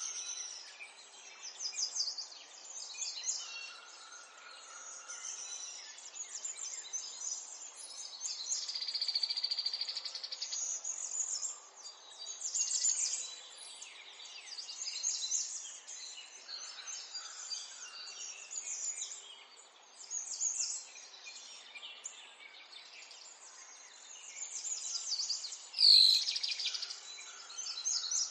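Birds chirping and singing, many overlapping high chirps, with one louder sharp call about two seconds before the end.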